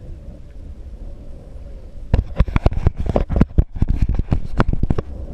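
A rapid, irregular run of sharp knocks and bumps starting about two seconds in and lasting about three seconds, over a steady low rumble.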